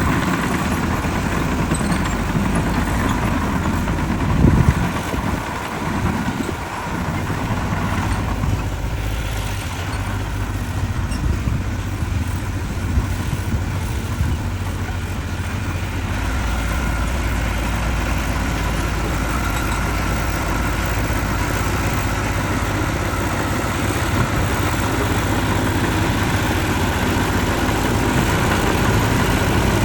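Heavy earthmoving machinery's diesel engines running steadily, with a brief louder burst about four seconds in and a deeper low drone joining about halfway through.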